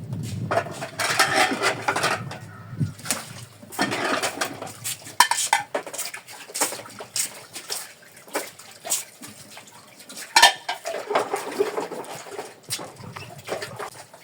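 Dishes, pots and cutlery clattering and clinking as they are washed by hand, with many sharp metallic clinks scattered throughout.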